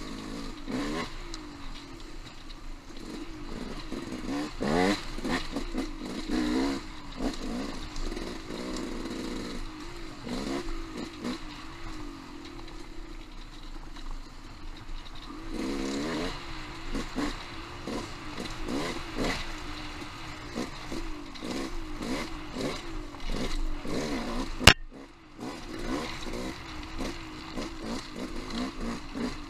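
Dirt bike engine running and revving up and down over rough trail, with clattering and scraping along the way. A single sharp crack, the loudest sound, comes about five seconds before the end.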